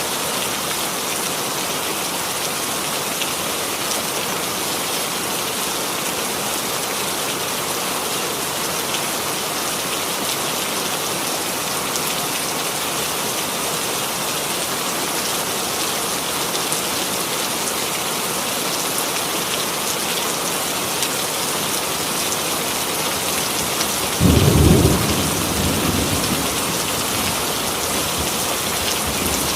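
Steady rain falling, an even hiss. Late on, a single sudden low clap of thunder that rumbles away over a few seconds.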